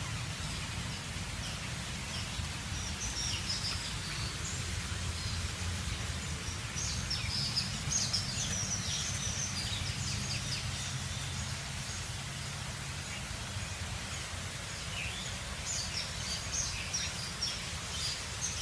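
Small birds chirping in short high bursts, several times, over a steady low rumble of outdoor background noise.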